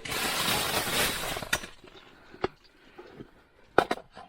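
Loud crinkly rustling that cuts off about a second and a half in, then a few scattered sharp clicks and taps, two of them close together near the end.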